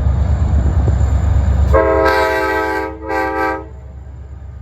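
Royal Gorge Route passenger train's multi-tone locomotive air horn sounding two blasts, a longer one about two seconds in and a short one right after, over a low rumble that fades as the horn starts.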